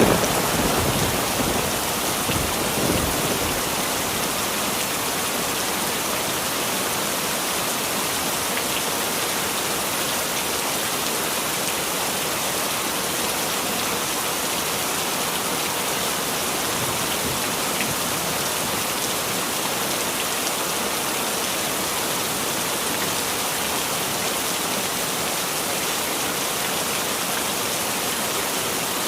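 Heavy rain falling steadily as an even hiss, with a low rumble in the first few seconds.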